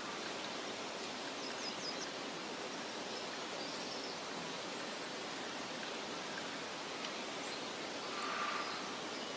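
Meadow ambience: a steady, soft rustling hiss of wind through grass and foliage. Faint high bird chirps come in briefly about a second and a half in, and a brief call sounds near the end.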